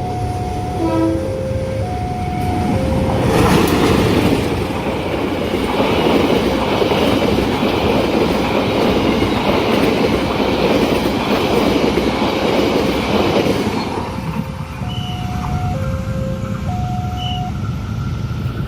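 Level-crossing warning chime alternating between two tones, drowned out about three seconds in by a train passing at speed for roughly ten seconds; the chime is heard again once the train has gone.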